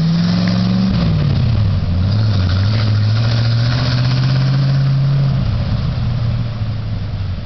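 1961 Chevy truck engine running, its pitch dropping about a second in as it comes down from a higher speed, then holding steady. Near the end it drops lower again and gets quieter.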